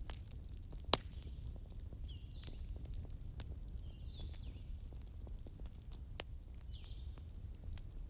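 Wood campfire crackling over a low steady rumble, with small ticks throughout and two sharp pops, one about a second in and one about six seconds in. Birds chirp repeatedly in the background, including a quick run of high notes near the middle.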